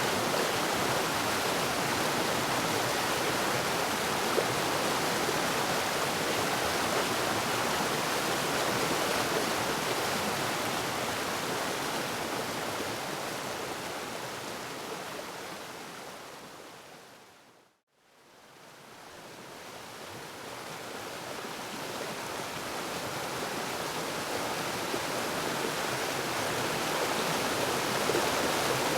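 Waterfall: a steady rushing of falling water. Around eighteen seconds in it fades smoothly down to silence and then fades back up again over several seconds.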